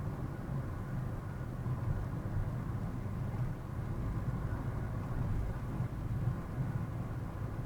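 Steady low rumble of a car driving, engine and tyre noise heard from inside the cabin through a dashboard camera's microphone.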